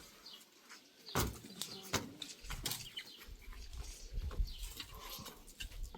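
Birds chirping, with a few sharp knocks scattered through.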